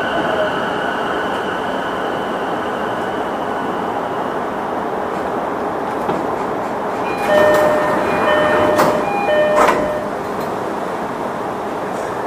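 Sotetsu 11000 series train, with a Mitsubishi IGBT-VVVF inverter, slowing into a station. The faint whine of the inverter fades out in the first few seconds under the running noise. About seven seconds in, with the train stopped, a repeated electronic door chime sounds, with a few clunks from the doors opening.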